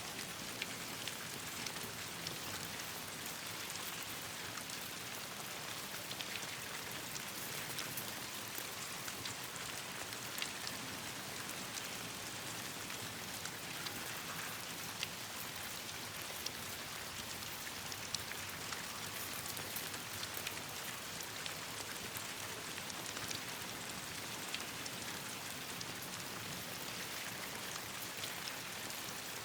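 Steady rain falling, an even hiss with scattered sharp ticks of single drops or pops.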